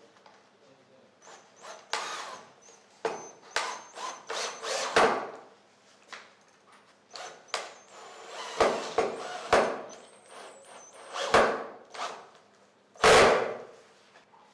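Cordless impact drill driving screws into wood in a string of short bursts, with knocks and handling of the wood in between; the loudest burst comes near the end.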